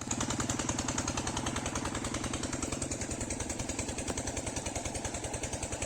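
Vehicle engine idling with a rapid, even beat.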